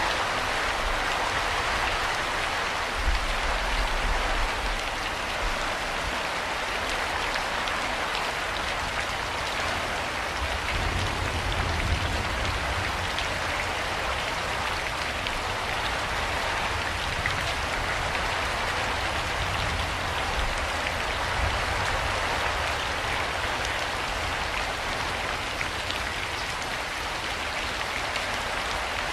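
Steady rain falling, an even hiss of many drops with scattered individual drop ticks, and a faint low rumble at times.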